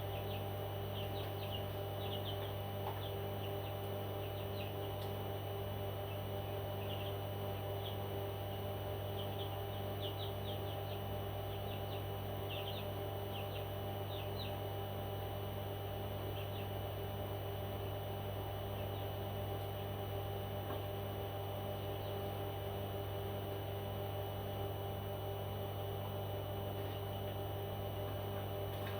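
A pet parrot giving short, high chirps in quick little clusters, mostly in the first half, over a steady low electrical hum.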